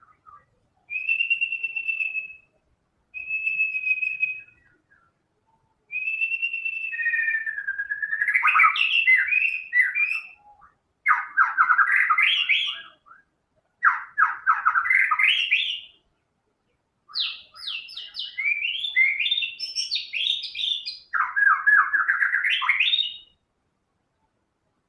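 White-rumped shama (murai batu) in full song. It gives two held, clear whistles, then a run of varied phrases packed with fast rattling trills and quick repeated notes, ending about two seconds before the end.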